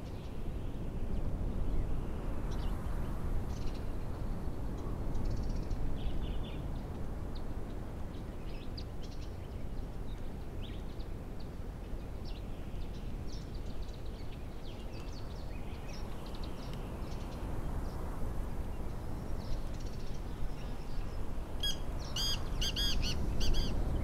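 Wild birds chirping and calling here and there over a steady low rumble. Near the end comes a louder, rapid run of about seven ringing calls.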